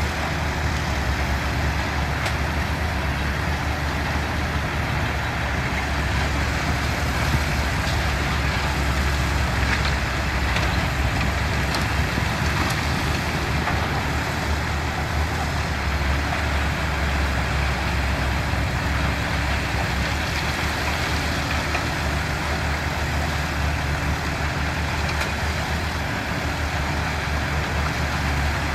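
Engines of heavy construction machinery running steadily, a constant low drone that holds an even pace.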